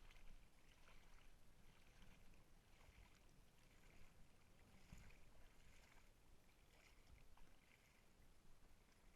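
Faint kayak paddle strokes in water, soft swishes recurring about once a second, over low rumble.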